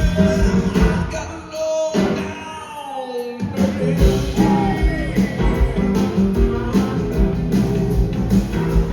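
Live blues-rock band playing an instrumental passage, led by an electric guitar line with sliding, gliding pitches. The bass and drums drop out for about two seconds near the start, leaving the lead line mostly alone, then the full band comes back in.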